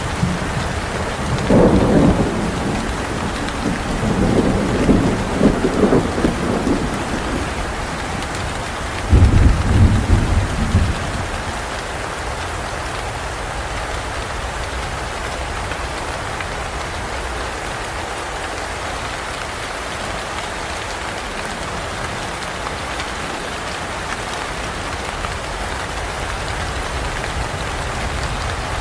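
Steady rain with thunder three times in the first eleven seconds, the deepest and loudest about nine seconds in; after that only the rain.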